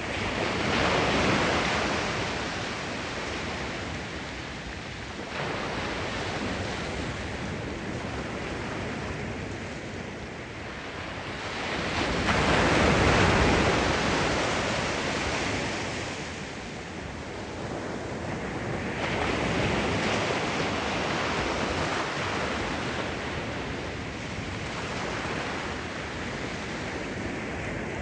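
Sea waves breaking and washing on the shore, the surf swelling and easing every few seconds, the biggest break about halfway through. Some wind noise on the microphone.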